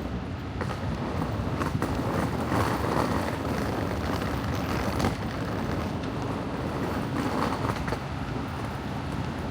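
Steady rumbling, hissing outdoor noise, with wind on the microphone.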